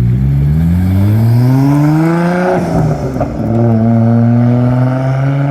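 A car's engine accelerating hard, its pitch rising steadily, with a short break for a gear change about two and a half seconds in, after which it pulls again at a slowly rising, steadier pitch.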